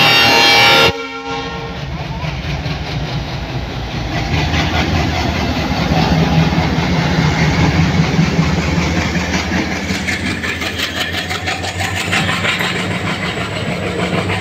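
A diesel locomotive's horn sounds several tones at once and cuts off about a second in. The locomotive's engine then runs loud as it passes close by, giving way to the rhythmic clickety-clack of the passenger coaches' wheels over the rail joints.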